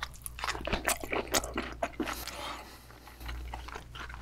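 Close-miked wet chewing of a thick slice of raw yellowtail sashimi: soft, squishy mouth clicks and smacks, easing off briefly a little past the middle.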